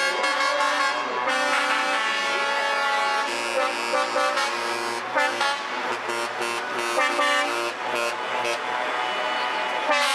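Truck air horns blowing, several horns and tones overlapping and changing, over the low running of truck engines.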